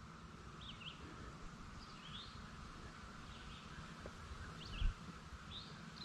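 Birds calling in short, quick chirps every second or so over a steady faint outdoor background and a low rumble, with a brief thump about five seconds in.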